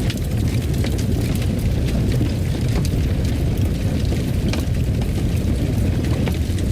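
Wood fire burning in a fireplace: a steady low rumble with scattered, irregular crackles and pops.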